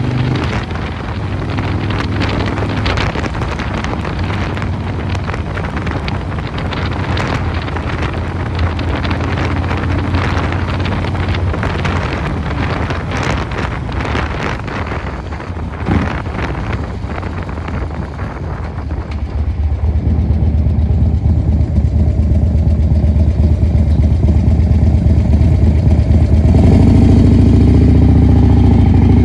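Harley-Davidson Dyna Super Glide Custom's 107 cubic inch S&S V-twin with a Vance & Hines 2-into-1 exhaust, running on the move under wind noise on the microphone. From about two-thirds of the way in the exhaust grows louder and clearer, and near the end the engine revs up, its pitch rising.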